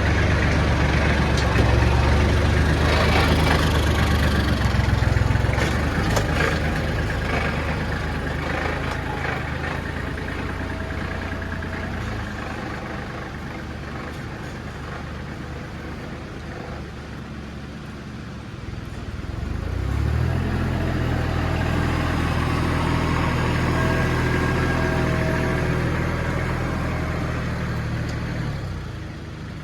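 A vehicle engine running with a steady low hum. It fades through the middle, comes back strong for several seconds, then drops away sharply near the end.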